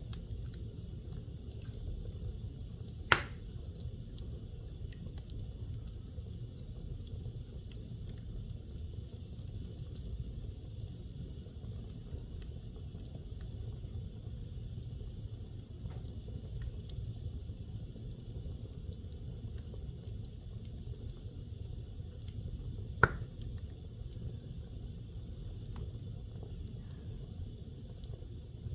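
Wood fire burning in a fireplace: a steady low rumble with faint scattered crackles and two sharp, loud pops, one about three seconds in and another about twenty seconds later.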